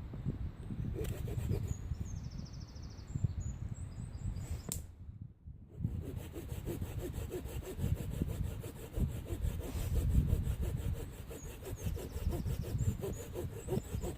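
Hand saw cutting back and forth through wood, with a short break about five seconds in before the sawing resumes.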